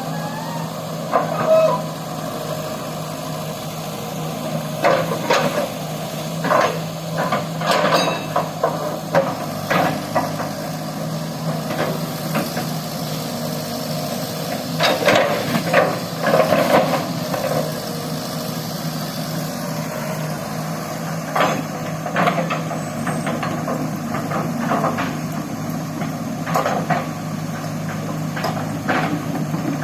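Excavator's diesel engine running steadily under load, with repeated metallic clanks and knocks from the machine at work, a burst of them about halfway through.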